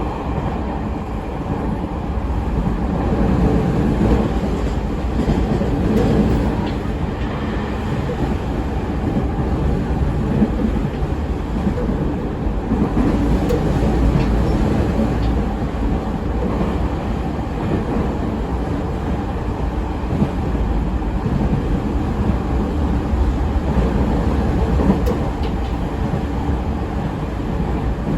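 Running noise of a JR 209 series 3100 subseries electric commuter train heard from inside the car. It is a steady, dense rumble of wheels on rail and running gear, with a few faint clicks over the track.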